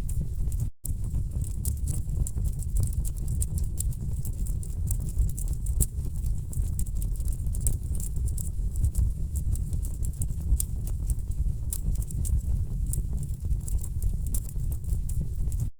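Wood fire crackling in a fireplace: frequent sharp pops and snaps from the burning logs over a steady low rumble. The sound cuts out for an instant about a second in.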